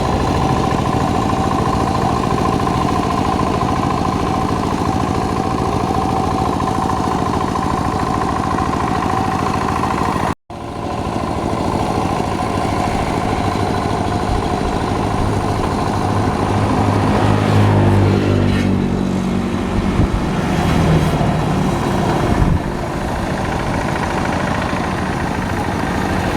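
Hand tractor's engine running, at first at a steady pitch. After a sudden brief gap about ten seconds in, its pitch rises and falls.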